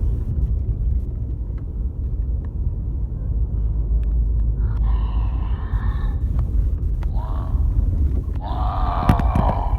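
Steady low rumble of a car on the move, heard from inside. From about halfway through, a voice makes wordless sounds in three short stretches.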